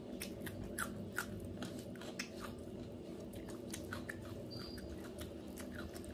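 Close-up eating sounds: chewing a mouthful of rice and chicken curry, with irregular wet mouth clicks and smacks, over a steady low hum.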